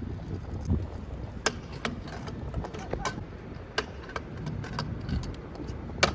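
Scooter ride: wind rumbling on the microphone, with scattered sharp clicks and rattles at irregular moments, the strongest near the end.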